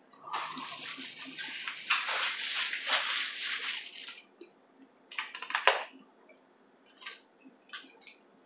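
Close-up wet chewing and lip-smacking of a person eating snow crab, with scattered small clicks and one sharp click about halfway through.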